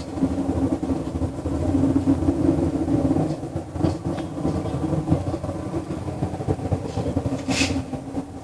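A low, steady droning rumble of unknown origin that keeps up without a break, swelling a little a couple of seconds in, with a brief hiss near the end.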